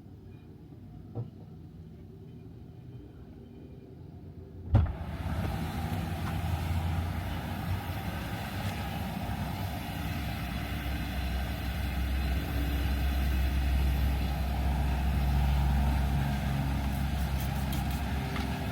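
Car noise: a quiet low hum with a small click, then a sharp knock about five seconds in, after which a steady, louder low rumble carries on to the end.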